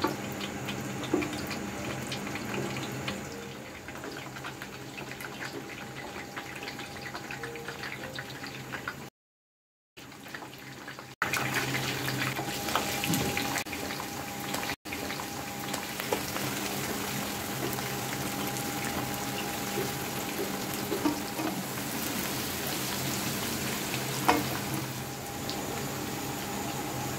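Whole spices sizzling in hot oil in a pan, with fine crackling and a faint steady hum underneath. After a brief cut, sliced onions fry in the oil, the sizzle louder and denser.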